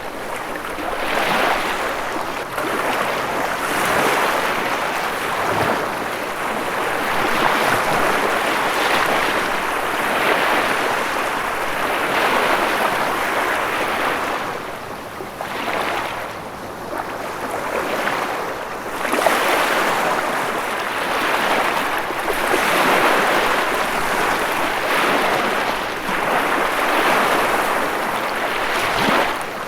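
Ocean waves breaking and washing on a shore, a continuous rushing surf that swells and eases every few seconds.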